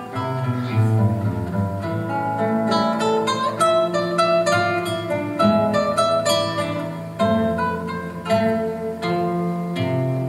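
Two acoustic guitars playing together, plucked notes in a melodic line over lower bass notes.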